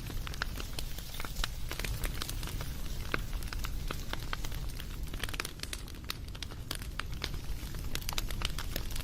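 Wood fire crackling: irregular sharp pops and snaps over a low, steady rumble of flame.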